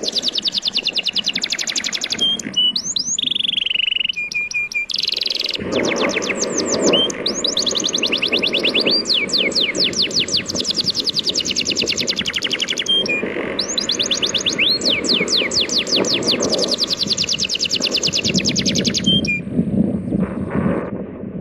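A songbird singing long, fast trills of repeated downward-sweeping chirps, several runs in a row, that stop shortly before the end. Underneath, a steady rush of sea waves.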